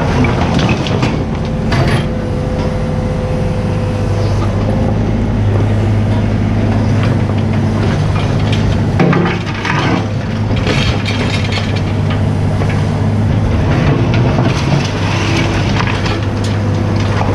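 Mini excavator's diesel engine running steadily, with the bucket scraping and crunching through the ground now and then, most plainly about two seconds in and again around the middle.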